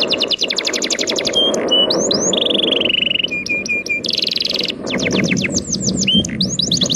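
A songbird singing a fast, varied song: rapid runs of downward-sweeping notes, about eight a second, broken by short held whistles and trills. Underneath is a steady wash of sea waves.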